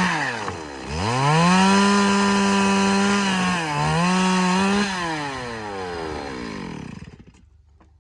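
Chainsaw running at high revs through timber, its pitch dipping sharply just under a second in and briefly again near four seconds. It then winds down steadily and stops about seven seconds in.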